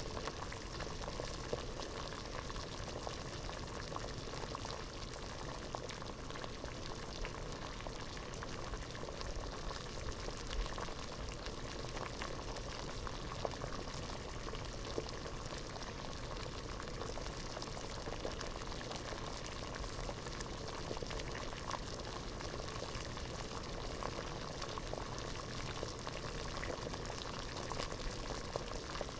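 Water boiling in a pot: a steady, dense bubbling made of many small pops.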